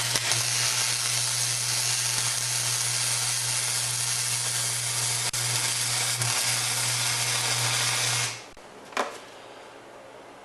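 Electric arc welding with flux: a steady crackling hiss over a low electrical hum for about eight seconds, cutting off sharply. A short knock follows about a second later.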